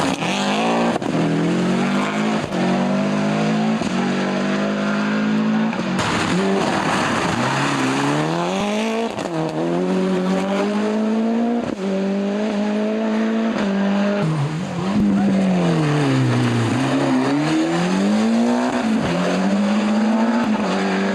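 Rally car engine at high revs, its pitch climbing and dropping again and again with gear changes, lifts and braking, and one deep drop and climb back about three-quarters of the way through.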